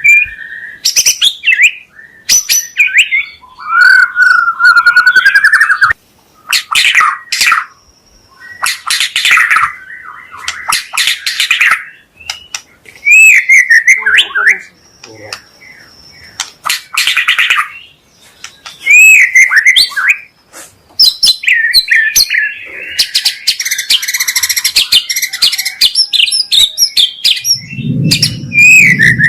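White-rumped shama (murai batu) singing a loud, varied song: clear whistled glides alternating with fast, harsh rattling trills, delivered in bursts with short pauses. A low hum joins near the end.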